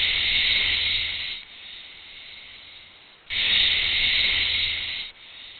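A snake hissing: two long loud hisses, each followed by a quieter, softer hiss, in a repeating breath-like rhythm.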